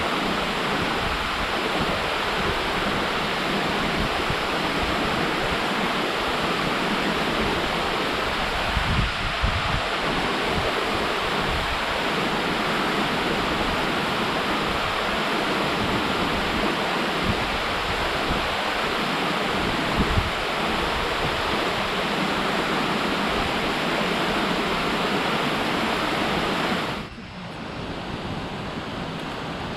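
Steady rush of falling water from the Boykinsky waterfall. The sound drops sharply to a quieter level near the end.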